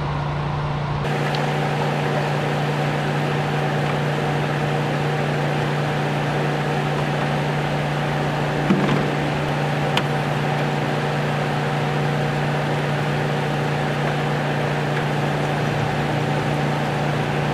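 Pontiac Fiero's 2.5-litre Iron Duke four-cylinder idling steadily, with its electric radiator cooling fan running, giving a steady hum. A couple of brief clinks come about nine and ten seconds in.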